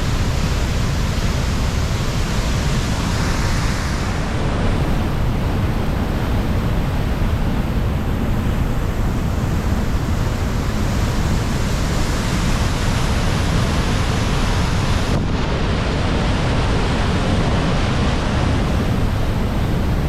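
Loud, steady rush of falling water from a waterfall, with wind buffeting the microphone. The sound shifts slightly twice, about four and fifteen seconds in.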